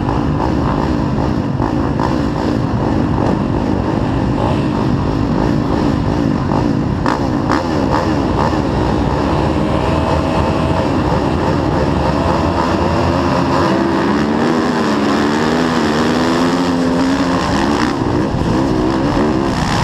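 Several motocross bikes' engines racing around the track, revving up and down through the gears. In the second half, one engine stands out more clearly, its pitch rising and falling repeatedly.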